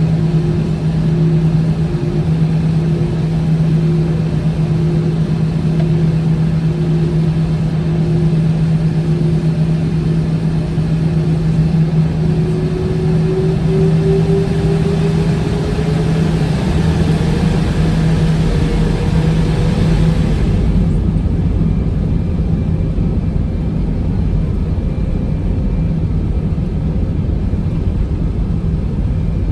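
Airbus A319 jet engines running with a steady hum and whine; about halfway through, the engine tone rises over several seconds as the engines spool up. A couple of seconds later the high hiss drops away abruptly.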